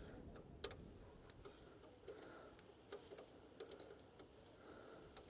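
Near silence with a few faint, irregular clicks.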